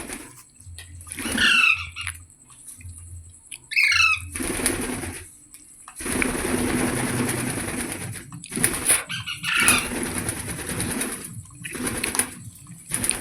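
Pet green parrot giving two short screeching calls, a couple of seconds apart, followed by stretches of wing flapping and rustling with a few sharp clicks.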